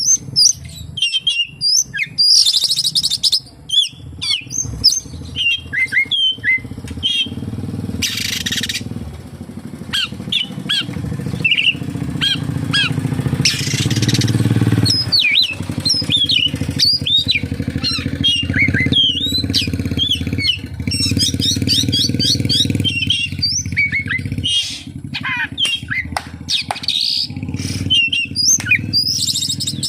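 Oriental magpie-robin (kacer) singing without pause: a varied run of whistles, chirps, fast trills and harsh notes, including calls copied from other birds. A steady low rumble runs underneath.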